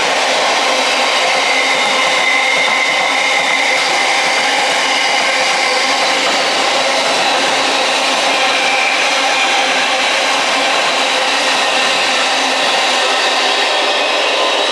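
Container freight train's wagons running past at speed close by: a loud, steady rush of wheels on rails, with thin high tones running through it.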